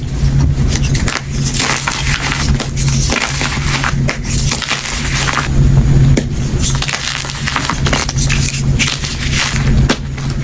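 Soft gym chalk being crushed, a continuous run of soft crumbling with small crunches and crackles, over a steady low hum.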